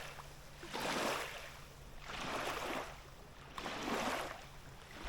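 Small waves lapping at the lake shore: three soft swells of water sound about a second and a half apart.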